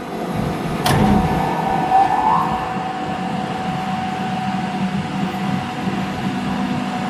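Factory machine running. It builds up over the first second, gives a sharp knock about a second in, then runs as a steady mechanical hum with a held whining tone over a low drone.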